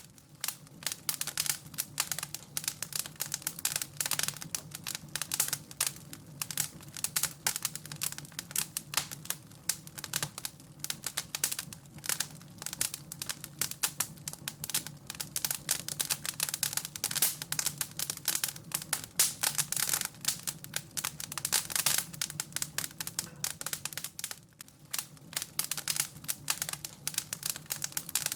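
Wood fire crackling and popping steadily, with a dense, irregular run of sharp snaps over a low steady hum.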